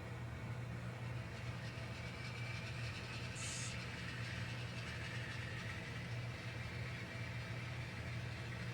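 Sound-equipped N scale model diesel locomotives running, their decoder engine sound a steady hum through small onboard speakers, with a short hiss about three and a half seconds in.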